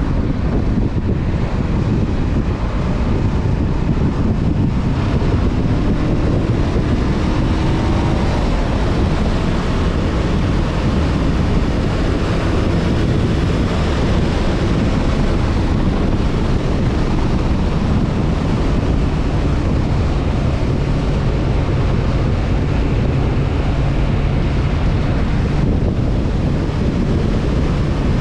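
Honda CB500F parallel-twin engine running at riding speed, largely buried under wind rushing over the microphone. The engine note rises a few seconds in and holds steady from about eighteen seconds on.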